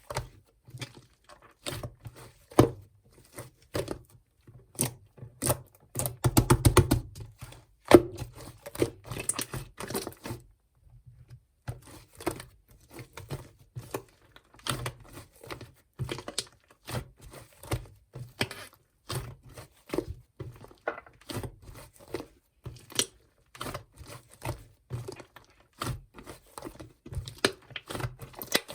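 Clay-mixed slime being pressed, poked and pulled by hand, giving a continuous run of small clicks, pops and tearing crackles. There is a denser, louder flurry about six to seven seconds in and a short lull near eleven seconds.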